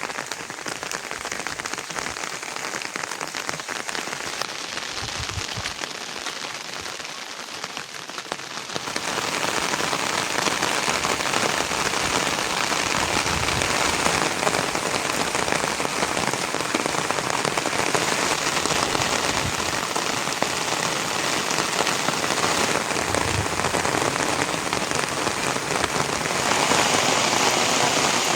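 Steady rain falling, a dense even hiss of drops that grows heavier about a third of the way in.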